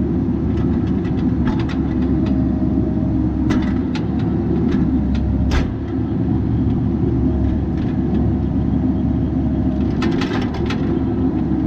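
Bobcat 337G mini excavator's diesel engine running steadily, with sharp knocks and clanks now and then and a quick cluster of them near the end.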